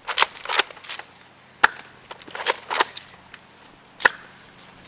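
A string of sharp clacks and knocks spread irregularly over a few seconds, about six in all: Nerf foam-dart blasters being primed and fired, and darts striking.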